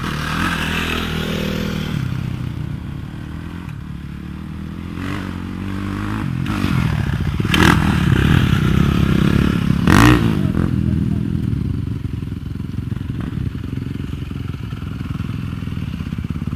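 Motocross dirt bike engines running, growing louder about six seconds in, with two sharp knocks a couple of seconds apart near the middle.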